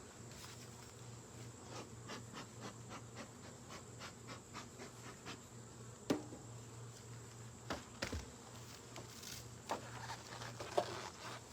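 Honeybees buzzing around an opened beehive, with a steady low hum. Scattered clicks and knocks of woodenware being handled sound over it, a few sharper ones in the second half.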